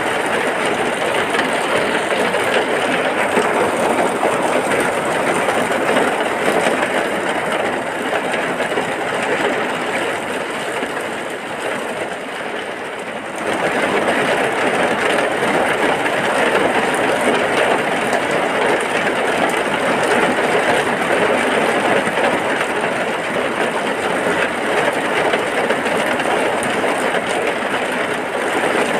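Heavy rain pouring in a dense, even hiss. It eases a little before the middle, then comes back abruptly about halfway through.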